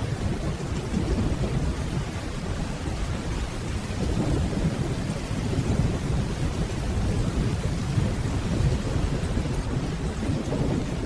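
Steady rainfall with a low, deep rumble of distant thunder that swells and fades slowly.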